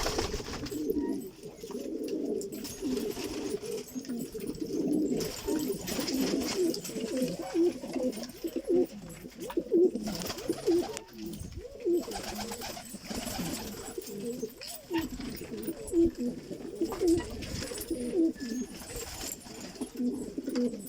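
Many domestic pigeons cooing in a loft: a continuous, overlapping chorus of short low calls, with scattered sharp clicks and knocks among them.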